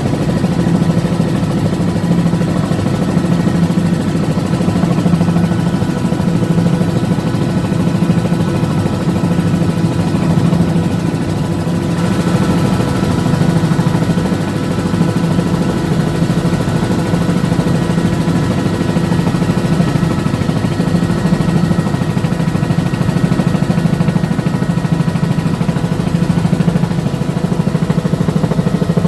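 Helicopter engine and rotor running steadily at a constant pitch, a loud low hum with steady higher tones over it.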